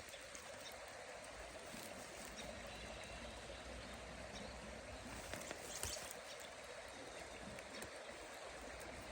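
Creek water flowing steadily, with a few faint clicks about halfway through.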